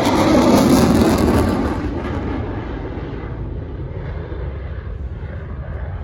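Fixed-wing airplane flying past, loudest about a second in, then fading and growing duller as it moves away.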